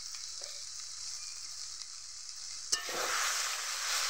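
Masala-coated taro and potato pieces sizzling in oil in a kadai as they are fried down. About three seconds in, the spatula knocks against the pan and the sizzling grows louder as the pieces are stirred.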